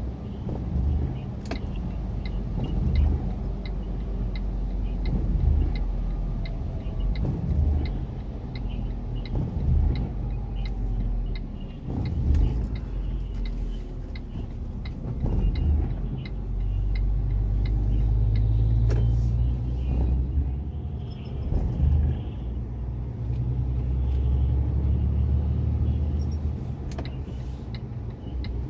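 Iveco gas truck's engine running under way with a steady low rumble that swells and eases, while a faint regular ticking, about two a second, runs through the first third.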